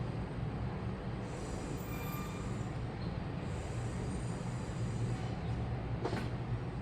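Washing machine running with a steady low rumble and hum, with faint high-pitched squeals that come and go and a single sharp click about six seconds in.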